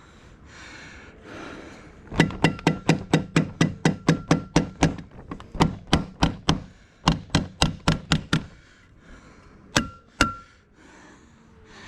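Staples being driven rapidly into wooden roof trusses through vapour barrier plastic: a fast run of sharp strikes, about five a second, in three bursts, then two last strikes near the end.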